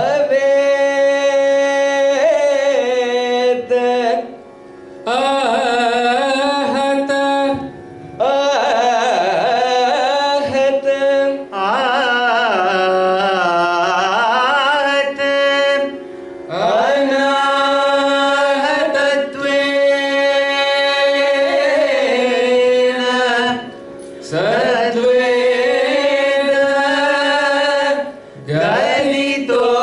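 Carnatic vocal singing over a steady drone, in long, sliding, ornamented phrases with short breaks between them.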